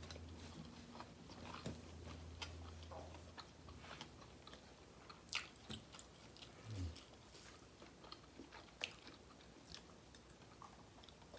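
Faint chewing and wet mouth sounds of people eating rice and curry with their fingers, with scattered small smacks and clicks. A low hum in the background stops about three and a half seconds in.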